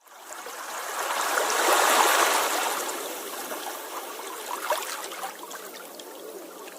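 Sea waves on the shore: a wave's wash swells to a peak about two seconds in, then recedes into a softer, steady hiss of foam and water.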